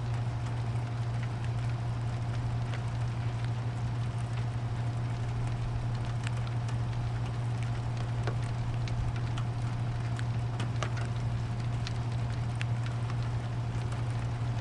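Steady rain, with scattered drops ticking on nearby surfaces over a constant low hum; no thunder.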